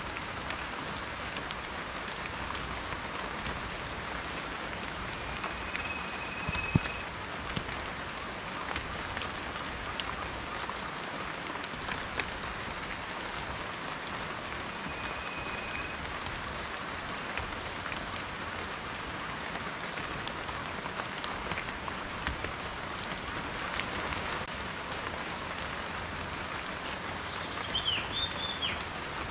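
Steady rain with individual raindrops ticking sharply on a surface, one drop landing louder about seven seconds in. A faint high steady whistle sounds twice, and a short chirping call comes near the end.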